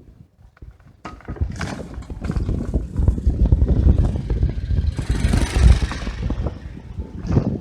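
Wind rumble on the microphone and short knocks and rattles while riding a bicycle, getting louder about a second in. A hiss swells briefly about five seconds in.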